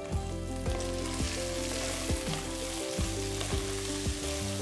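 Onion and tomato masala sizzling steadily in hot sesame oil in a clay pot, just after chopped tomatoes go in, with a wooden spatula stirring through it.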